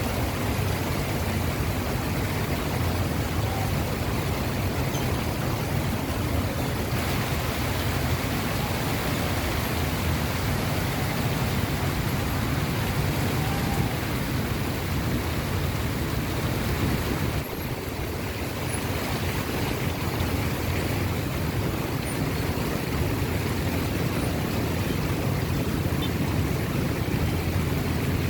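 Steady hiss of heavy monsoon rain mixed with the low rumble of street traffic, dipping briefly about two-thirds of the way through.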